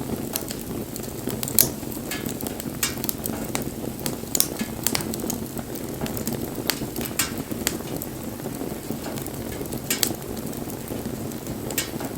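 Wood bonfire burning with a steady rush of flame and irregular sharp crackles and pops from the burning wood, a couple of them louder, about a second and a half in and near ten seconds in.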